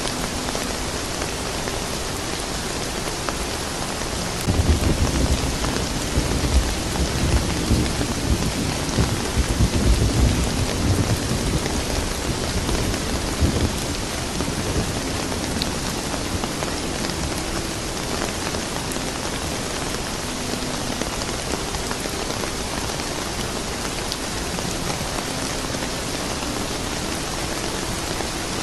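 Steady soft rain, with a long roll of thunder rumbling low from a few seconds in until about halfway through, then fading back under the rain.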